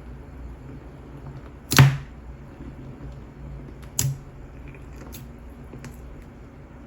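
Milky clear slime packed with silica beads being squeezed and played with by hand, giving a sharp click about two seconds in, a smaller one about two seconds later, and a few faint ticks after that.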